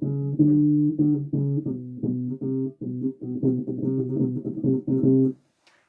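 Bass guitar playing a quick riff of plucked notes, at times two notes together; it stops about five and a half seconds in.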